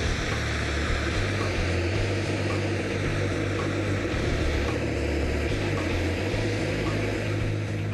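Steady rushing jet noise of a large RC F-100 model jet's Pegasus SP model gas turbine running in flight.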